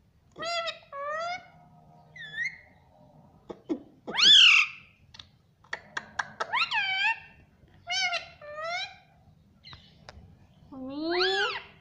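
Ring-necked parrot calling: a run of short two-part calls in its mimicking voice, a loud rising squawk about four seconds in and another near the end, with a few short clicks just after the middle.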